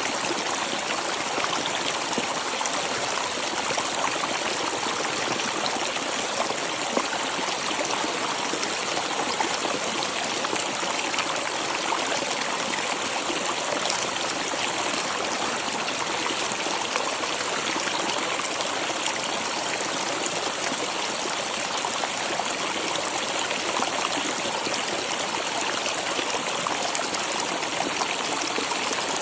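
Waterfall splashing and rushing, a steady, unbroken hiss of falling water.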